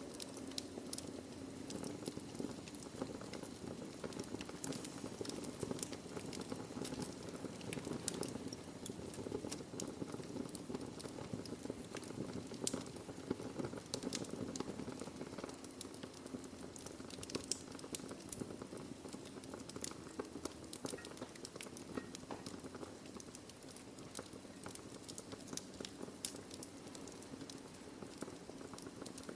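Wood fire burning in a fireplace: a steady low rush with many scattered crackles and pops.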